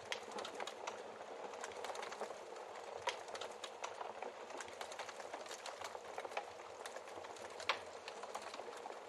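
Wood fire crackling steadily in a fireplace, dense small crackles with sharper log pops about three seconds in and again near the end.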